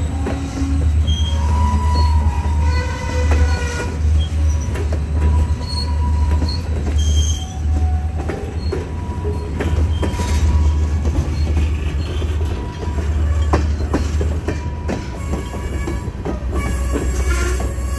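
Freight train of tank cars rolling past at close range: a steady low rumble, with wheel clicks and brief high-pitched wheel squeals.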